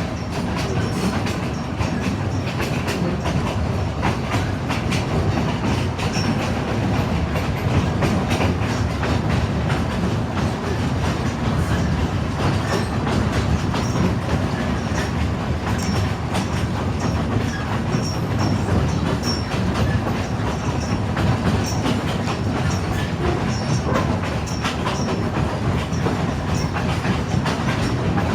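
Narrow-gauge passenger train of the East Broad Top Railroad running along the track: a steady low rumble of car wheels on rail, with many short clicks and ticks from the running gear and rail joints.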